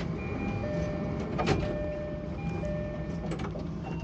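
Steady low running rumble inside the cab of a Tobu 70000-series electric train. Thin electronic tones switch on and off several times over it, and there is one sharp click about one and a half seconds in.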